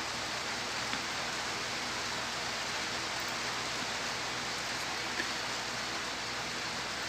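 Steady rain falling, an even hiss, with a faint click about a second in and another a little after five seconds.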